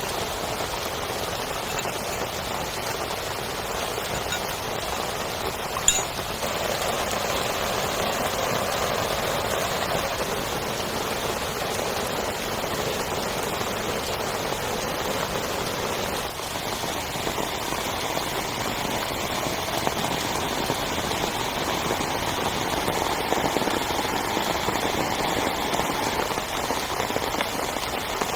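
Heavy rain pattering steadily on a tent, with one sharp click about six seconds in, after which the rain gets a little louder.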